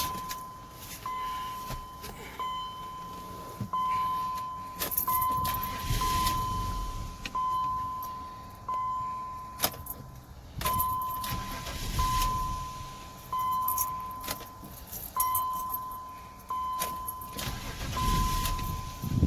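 BMW X5 3.0i's inline-six cranked three times, catching briefly and dying each time: it starts but will not stay running. A warning beep from the car repeats steadily about once a second throughout.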